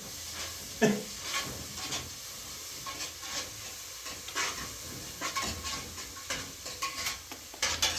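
Scattered light clicks and scrapes, like utensils on cookware, over a steady faint hiss.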